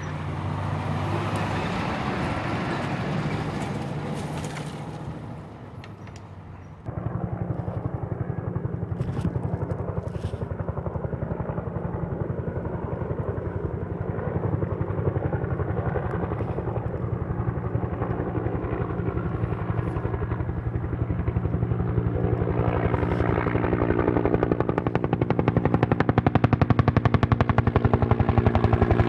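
Helicopter rotor chopping fast and evenly with a low engine hum, growing louder as it comes closer. For the first six seconds there is instead a rushing engine noise, which cuts off abruptly.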